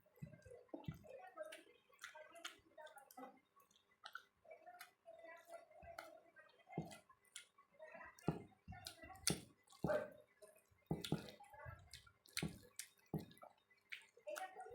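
Close-up eating sounds: wet chewing and squishing of rice with dal and omelette, with irregular mouth clicks and smacks.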